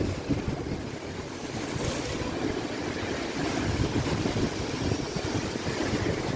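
Stormy sea: waves surging and breaking with a steady rush, a brighter surge about two seconds in, and wind buffeting the microphone as a low rumble.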